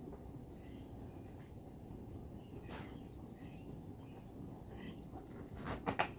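Faint outdoor morning ambience with sparse, short distant bird chirps. A few rustling knocks come near the end.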